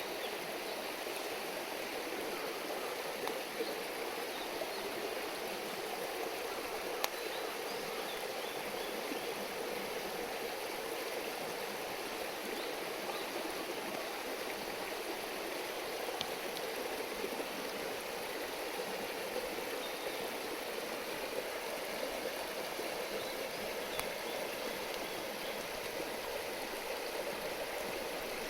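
River water babbling steadily, with a few sharp pops from the wood fire.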